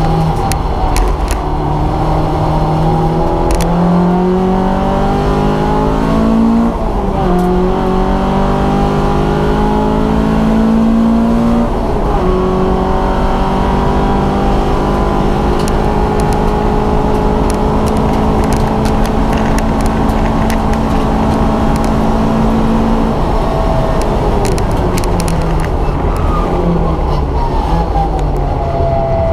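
Vauxhall Nova track car's engine heard from inside the stripped cabin, pulling hard at full throttle: the revs climb, drop sharply at upshifts about seven and twelve seconds in, hold fairly steady, then fall away near the end as the car slows.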